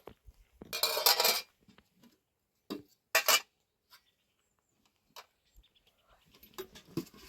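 Hard objects clinking and clattering in a few short bouts: the loudest about a second in, then two brief ones about three seconds in and a single click later.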